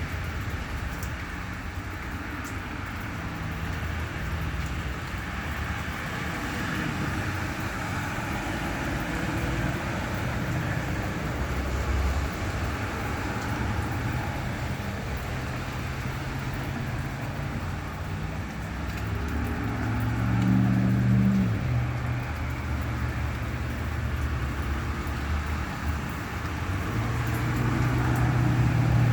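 Road traffic on a wet road: vehicle engines humming under a steady hiss of tyres on wet pavement, with an engine growing louder about two-thirds of the way through and again near the end.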